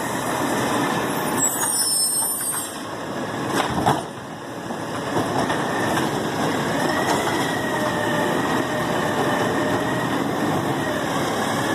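Garbage truck running steadily with a wavering whine over the engine noise. A brief hiss comes about a second in, and a single sharp knock just before four seconds.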